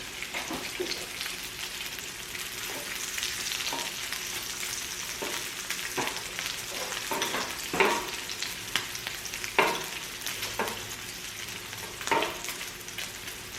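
Slices of pork belly (samgyeopsal) sizzling steadily in their own fat on a tabletop grill, with a few sharp knocks and clicks from utensils. The meat had been frozen once, so a lot of fat is coming out.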